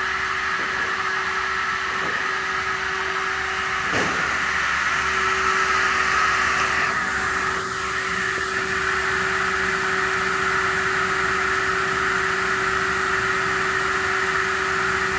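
Hydraulic circular saw machine for cutting aluminium profiles running with a steady whine, with a sharp knock about four seconds in.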